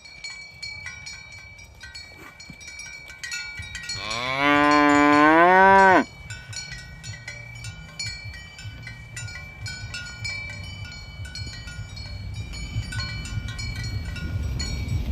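A cow mooing once: a single long call of about two seconds that rises in pitch before cutting off sharply. Cattle bells clink on and off throughout.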